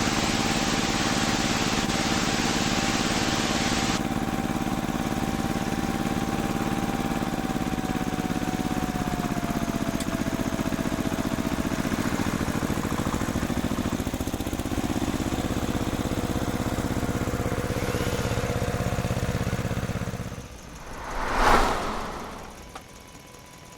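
An engine running steadily for about twenty seconds, then dropping away, followed by a short whoosh that swells and fades about twenty-one seconds in.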